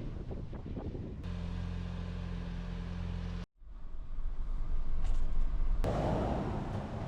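A vehicle engine running with a steady low hum, then, after an abrupt cut, a rumbling wash of road and wind noise that grows louder near the end.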